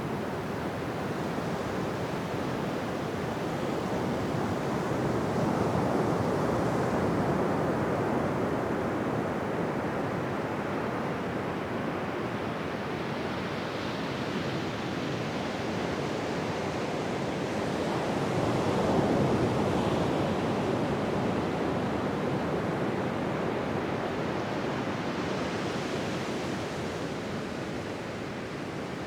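Ocean surf: waves breaking and washing up a beach, a continuous rush that swells and eases, with the biggest surges about six and nineteen seconds in.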